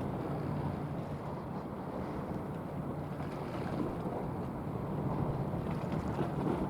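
Steady low drone of a ship's engines with rushing water, and wind buffeting the microphone.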